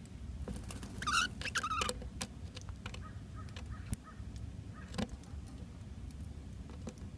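A pet bird gives a few short calls in quick succession about a second in, followed by scattered light clicks and taps, over a steady low hum.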